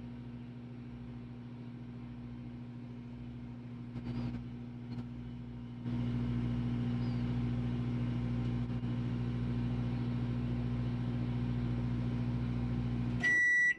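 Microwave oven running with a steady hum, louder from about six seconds in. Near the end it shuts off and the first end-of-cycle beep sounds.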